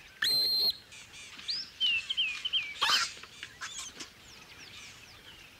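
Birds calling: a loud, high, steady whistle held for about half a second near the start, then a run of short, hooked, high chirps. A brief noisy burst comes about three seconds in.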